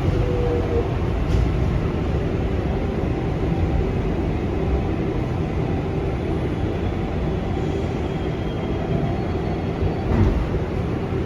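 R188 subway train running on the elevated 7 line with a steady, heavy rumble and a faint whine over it.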